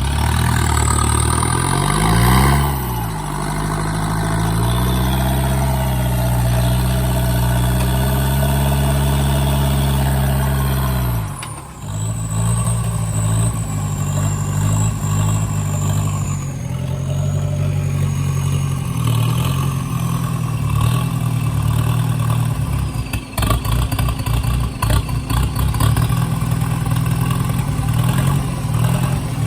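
Off-road vehicle engine working under load. Revs climb about two seconds in and hold high, then drop off sharply about halfway through. After that it runs unevenly, with knocks and clatter near the end.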